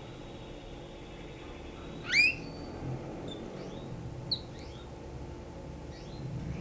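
Domestic canary singing: a faint fast trill held at one high pitch, then a loud rising note about two seconds in, followed by scattered short chirps.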